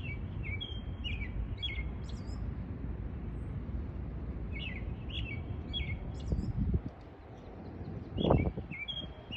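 Small birds chirping in short, repeated calls over a steady low background rumble, with a brief low sound about eight seconds in.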